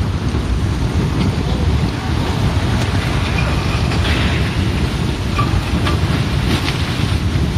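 Mudslide rushing down a mountain: a steady, loud, low rumbling rush of mud and debris, with wind buffeting the microphone.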